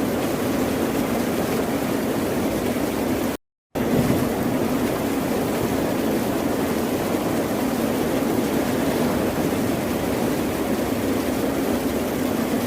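Continuous rushing of ocean surf, a dense steady wash of water noise. It cuts out completely for a split second about three and a half seconds in, then resumes unchanged.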